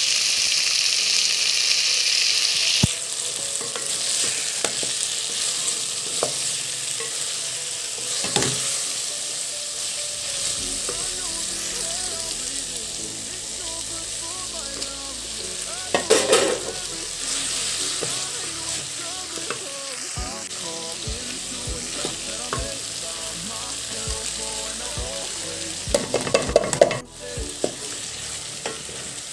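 Meat and tomatoes frying and sizzling in a pot while being stirred with a wooden spatula. The sizzle is loudest in the first few seconds, and a few knocks come about 8 s in, about 16 s in and near the end.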